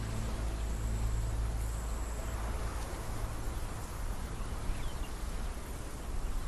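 Steady outdoor natural ambience with a faint, high-pitched insect whine heard twice in the first couple of seconds.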